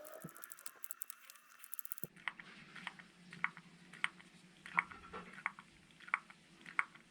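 Dense fast clicking, which changes abruptly about two seconds in to sharp single clicks repeating about every two-thirds of a second over a low steady hum.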